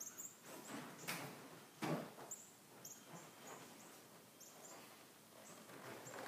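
Faint outdoor ambience: small birds chirping in short, high, repeated chirps, with a few soft knocks or steps, the loudest about two seconds in.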